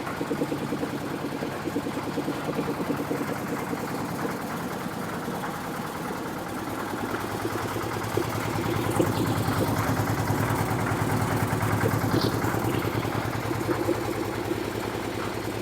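10 HP Kirloskar engine of a 3/4-bag concrete mixer with a ladder-lift attachment, running steadily with an even firing beat. It gets a little louder from about eight seconds in.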